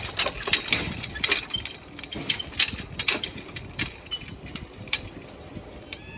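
Level crossing equipment clattering: a run of irregular metallic clicks and knocks over a steady low mechanical hum. The knocks are densest and loudest in the first three seconds, then thin out.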